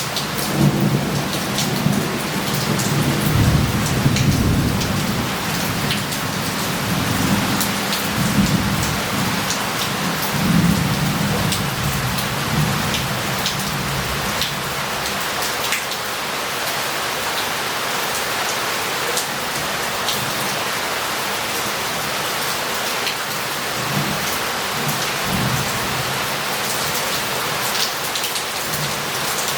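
Heavy rain pouring onto a city street, splashing and running off roof tiles, with many close drips. Thunder rumbles low through the first dozen seconds, dies away, and rumbles again more faintly near the end.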